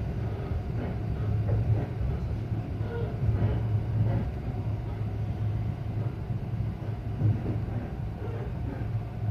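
Ainokaze Toyama Railway local train running, heard from inside the carriage: a steady low rumble of motors and wheels on the rails, with a few faint clicks.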